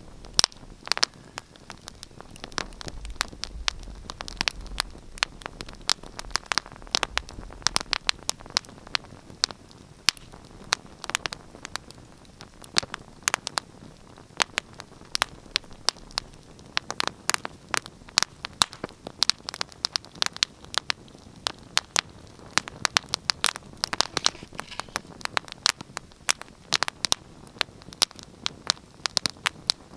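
Wood fire crackling in a fireplace: frequent, irregular sharp pops and snaps over a soft steady hiss.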